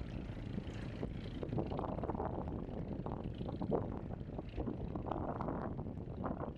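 Seaside ambience: wind buffeting the microphone in a steady low rumble, with water lapping at the shore in small irregular splashes.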